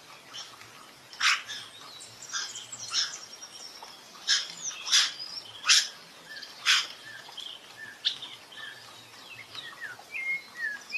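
Rufous-bellied thrush singing short, fluty whistled phrases. These are broken by about seven brief, loud, sharp notes, most of them in the first eight seconds.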